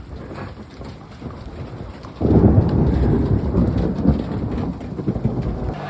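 Rain falling steadily, then about two seconds in a loud, low rumble of thunder that rolls on for about three seconds and cuts off suddenly near the end.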